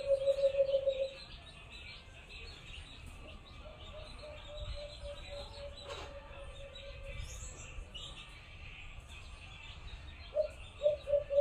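A dove giving a rapid string of low cooing notes, about seven a second. It is loud for the first second, fainter in the middle and loud again near the end, with small birds chirping higher up.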